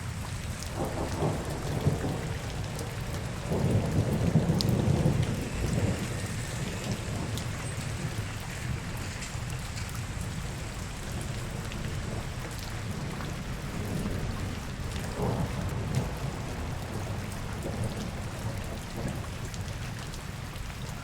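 Steady rain falling, under a low rumble that swells louder twice in the first few seconds and again about fifteen seconds in.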